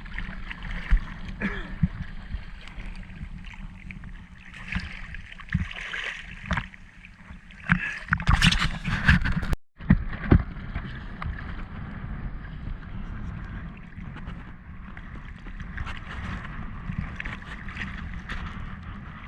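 Choppy sea water sloshing and splashing around the camera, with wind on the microphone and several sharp knocks. A loud burst of splashing comes about eight to nine seconds in.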